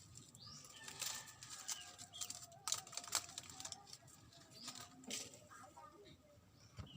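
Dry, termite-damaged coconut leaves and sticks rustling and crackling in irregular bursts as they are pulled and handled, with a few bird calls in the background.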